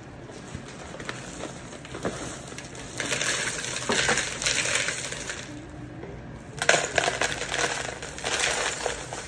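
Dry Frosted Flakes cereal poured into a large bowl in two pours of a couple of seconds each, the second beginning a little past halfway.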